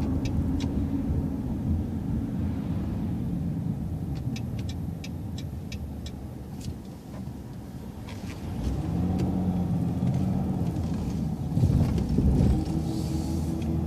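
Transit bus engine running in the cabin, easing off and then pulling away again with a rising drone about eight and a half seconds in. A quick run of light clicks comes around five seconds in, and loud low thumps come near the end.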